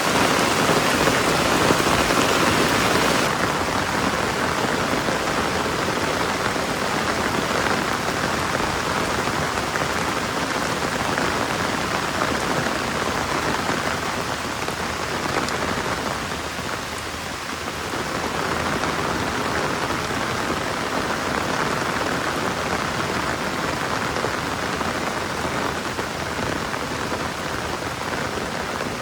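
Steady rain falling on the ground and surfaces around, an even hiss. It loses some of its top edge about three seconds in and dips briefly a little past the middle.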